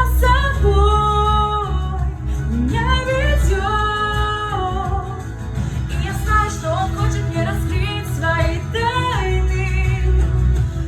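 A woman singing a pop song over a backing track, her voice holding long notes and sliding between pitches.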